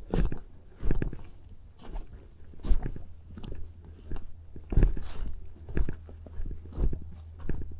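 Footsteps of a person walking over forest ground, crunchy short steps about one a second, with a brief brushing rustle about five seconds in.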